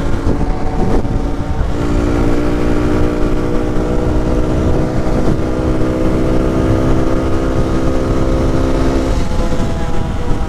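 Motorcycle engine running steadily while riding, over a constant low rumble. The engine note holds even for most of the time, then changes about nine seconds in.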